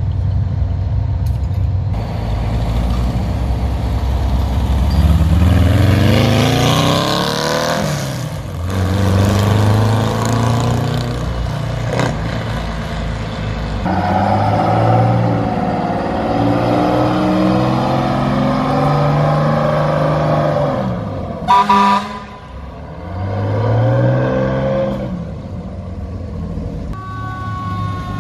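Engines of classic cars and a fire engine pulling away one after another, each rising in pitch as it accelerates past. About three quarters of the way through, a short, loud vehicle horn blast.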